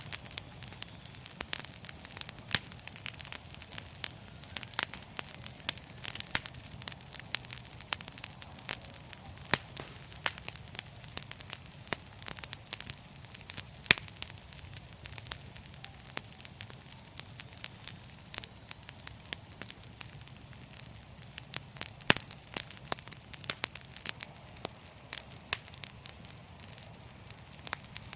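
Wood fire crackling: many sharp, irregular pops and snaps, several a second, over a steady soft hiss and low rumble of the flames.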